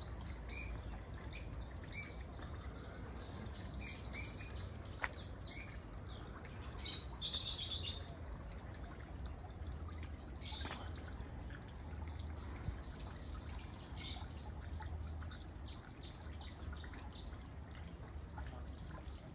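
Small birds chirping in short, repeated high notes, with a small garden fountain trickling in the pond beneath them, over a steady low rumble. A single sharp click about five seconds in.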